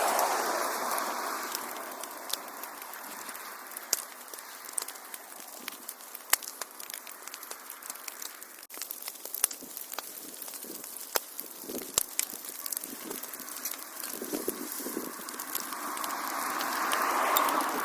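Wood fire crackling in a fireplace: irregular sharp pops and snaps over a steady hiss, with a soft rushing swell that rises and falls near the end.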